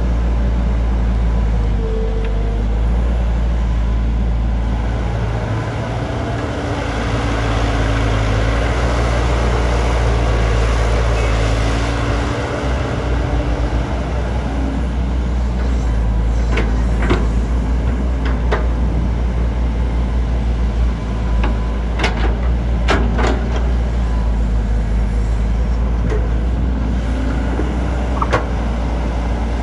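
JCB JS205 tracked excavator's diesel engine running steadily with a deep rumble, its working noise swelling for several seconds in the first half. Several sharp metal clanks come in the second half, in quick pairs around two-thirds of the way through.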